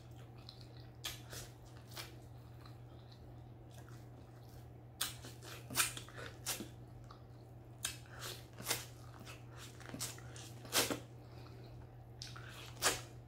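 Biting into and chewing corn on the cob: about a dozen sharp, irregular crunches of kernels and wet mouth noises, with a low steady hum underneath.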